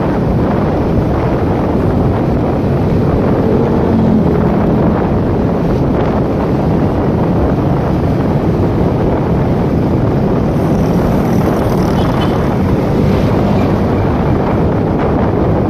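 Motorcycle ride heard through the rider's camera microphone: a steady rush of wind on the mic over the running engine.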